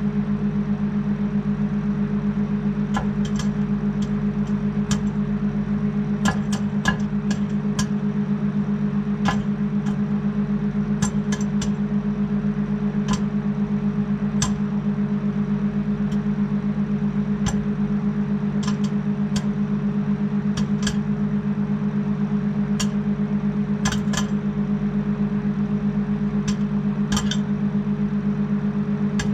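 Microwave oven running with a steady low hum, with irregular sharp pops of popcorn kernels bursting inside it, scattered one at a time.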